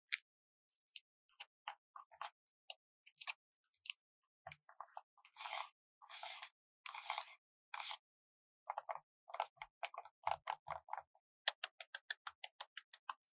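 Close-up sticker handling. Scattered small crisp clicks and taps, then three longer crisp peeling sounds in the middle, each about half a second, then a quick run of small taps near the end.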